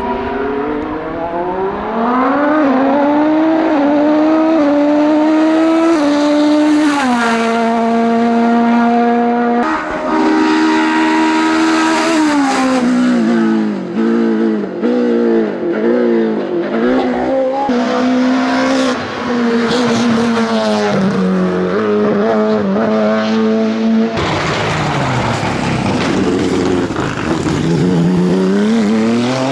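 Hillclimb racing car engines at full throttle, the revs climbing and dropping sharply at each gear change. About 24 s in, the sound cuts to a second race car.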